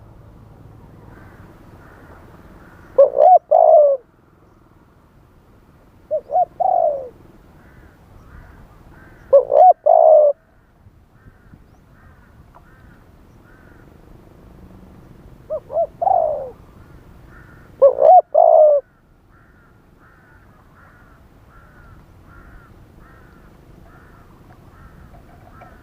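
Spotted dove cooing in repeated phrases of two or three deep, swooping coo notes, five phrases spread a few seconds apart. A second bird gives faint short chirps, repeating about twice a second in the latter half.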